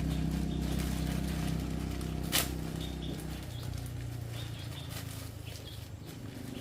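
Motorcycle engine running, dying away about three seconds in to a faint low hum. A single sharp click comes just before it fades, and birds chirp faintly.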